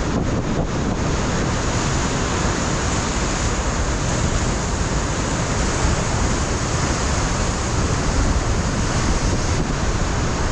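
Ocean surf breaking and washing on a rocky shore, a steady loud rush, with wind buffeting the microphone.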